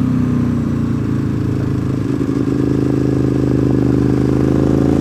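Motorcycle engine running under way, its pitch climbing slowly in the second half as the bike accelerates.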